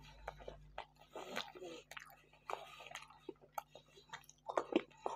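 Close-miked mouth sounds of a man chewing and biting food from a meal of Iraqi meat qalya with bread and sides. Irregular short clicks and smacks, the loudest pair a little after four and a half seconds.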